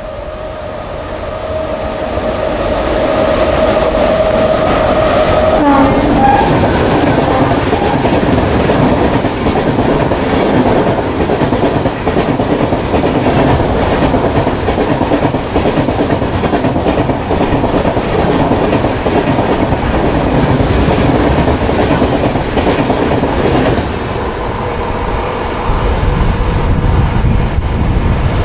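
Horn of a WAP-7 electric locomotive, a steady two-tone blast held until about six seconds in, then the locomotive and Rajdhani Express coaches running through at speed, wheels clattering over the rail joints. Near the end the passing noise gives way to a lower rumble.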